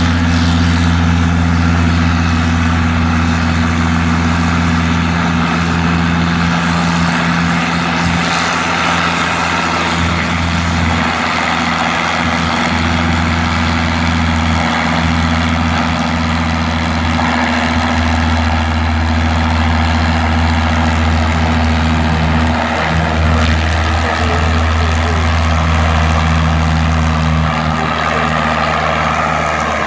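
Farm tractor engine running steadily and loudly.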